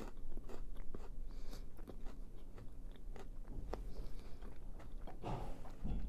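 A person biting into and chewing a birthday cake Kit Kat wafer bar, the crisp wafer crunching in quick, irregular clicks.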